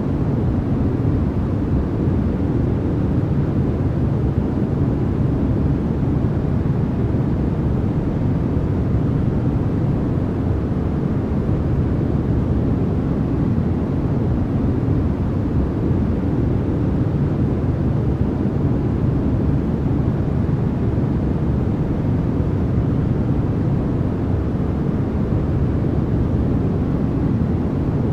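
Steady, unbroken synthetic noise for sleep, played as 'white noise' but weighted heavily to the low end, so it comes across as a deep even rumble rather than a bright hiss.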